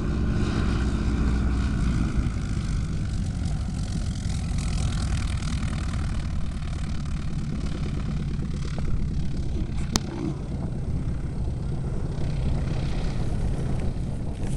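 Propeller aircraft engine, a Harvard trainer's Pratt & Whitney Wasp radial, running steadily with its propeller as the plane comes in. A single sharp click about ten seconds in.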